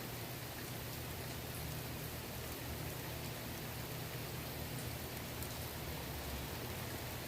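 Steady rain falling on a swimming pool's water and surroundings: an even patter of drops, with a steady low hum underneath.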